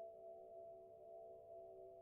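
Faint ambient drone: several steady tones held together in a low-middle cluster, swelling gently in loudness with no strike or break.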